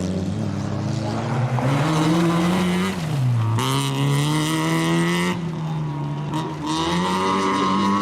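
Rally car engine revving hard at full throttle, its pitch dropping as the driver lifts off about three seconds in, then back on the power louder; it eases again and picks up once more near the end.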